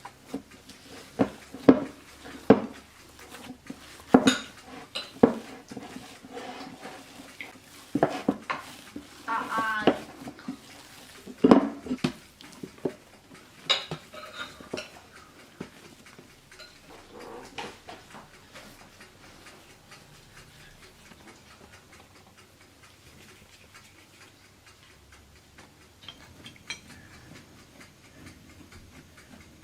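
Dishes and cutlery clinking as they are handled and set down, a string of sharp clinks and knocks that thins out through the second half.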